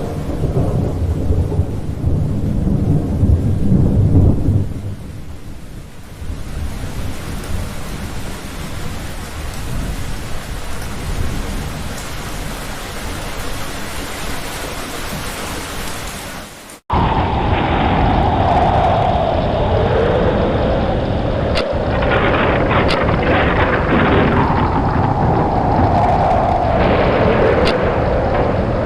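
A rolling thunderclap over heavy rain for about five seconds, then steady rain. About two-thirds of the way through, the rain cuts off suddenly and a different sound takes over: a wavering tone with scattered creaks and clicks.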